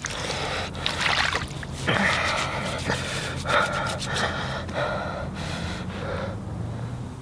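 A person gasping and breathing hard in a run of uneven, noisy breaths.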